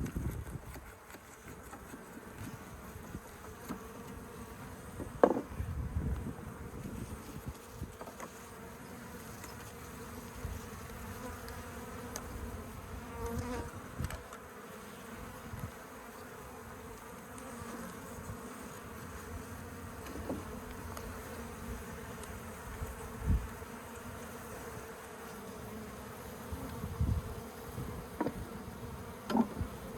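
Honeybee colony buzzing steadily, the hum of many bees around their opened nest. A few knocks from handling the comb break in, the sharpest about five seconds in.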